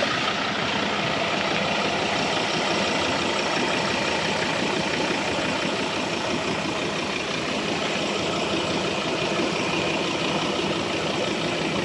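Ford four-wheel drive's engine idling, heard close up at the front grille as a steady, even running noise.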